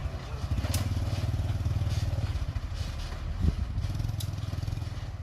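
Diesel engine of a Komatsu mini bulldozer running steadily under load as it pushes soil, with a few sharp clinks and a louder thump about three and a half seconds in.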